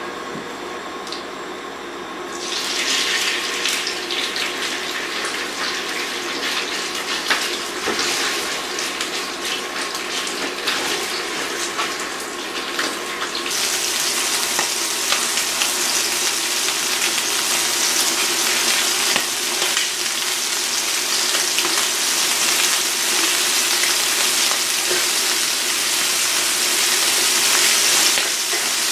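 Prawns sizzling in hot oil in a non-stick frying pan: a hiss that starts suddenly about two seconds in as they go into the pan, then grows louder and brighter about halfway through as they fry.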